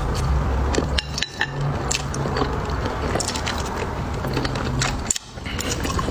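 Close-miked eating: a person biting and chewing food, with many small sharp clicks and crackles over a low rumbling mouth noise.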